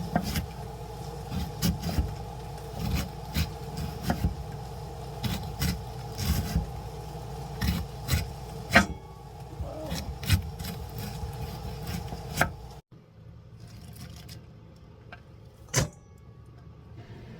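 Knife chopping vegetables on a cutting board: irregular knocks, one or two a second, over a steady low hum. About 13 seconds in, the hum stops abruptly and only one more knock follows.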